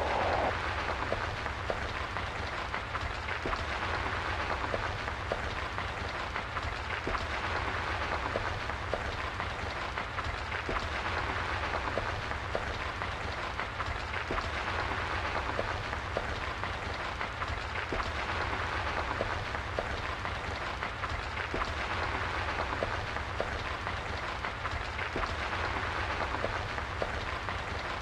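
Steady rain pattering, with many small drop ticks over a low, constant rumble.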